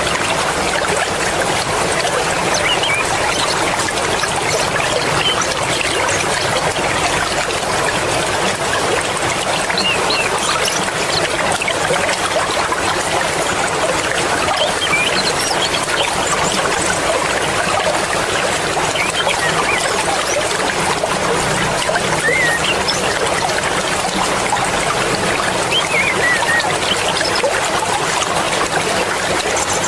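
Swift mountain river water flowing, a steady dense rushing and burbling with no let-up.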